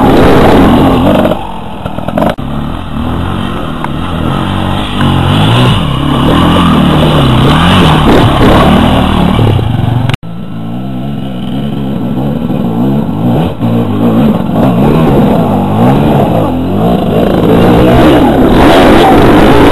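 Enduro dirt bike engines revving up and down, over and over, as the bikes are worked up a rocky climb. The sound breaks off abruptly about ten seconds in and picks up again.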